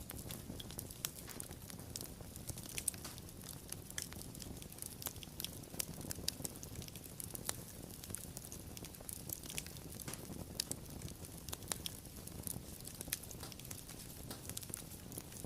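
Wood fire crackling: irregular sharp pops and snaps over a soft steady rumble of burning.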